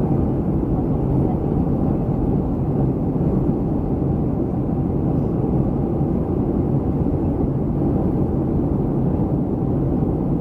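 Steady low rumble of a Boeing 737-300's CFM56 jet engines and rushing airflow, heard from inside the passenger cabin in flight.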